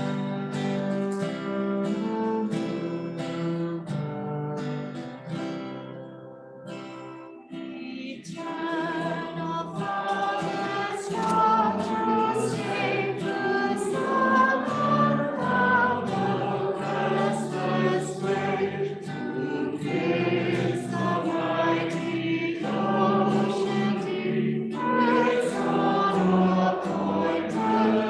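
Acoustic guitar playing a hymn introduction, then a congregation joining in with the hymn about eight seconds in, the guitar accompanying the singing.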